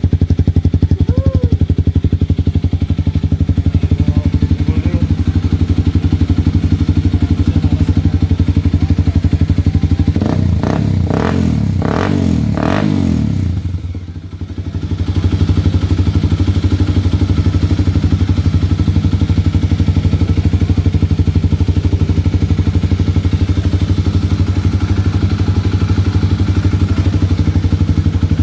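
Kawasaki D-Tracker 250's single-cylinder four-stroke engine running through a freshly fitted MIVV exhaust. It idles steadily, is blipped a few times about ten to thirteen seconds in, dips briefly, then settles back to idle.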